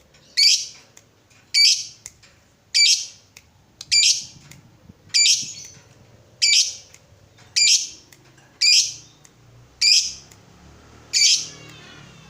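Lovebird giving short, shrill, harsh calls, one about every 1.2 seconds, ten in all, with a few quick twittering notes after the last call.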